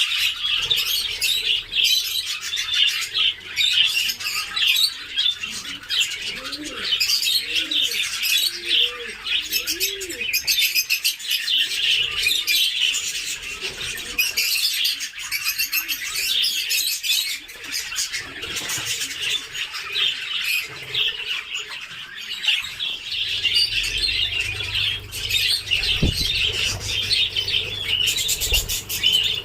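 A flock of budgerigars chirping and chattering without a break. A few lower, arching calls come in between about six and ten seconds in, and there is a brief low thump near the end.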